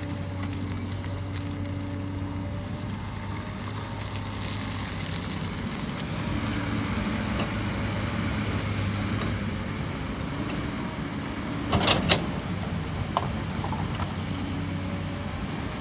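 Hyundai excavator's diesel engine running steadily under work, with a couple of sharp metallic knocks about twelve seconds in and another soon after.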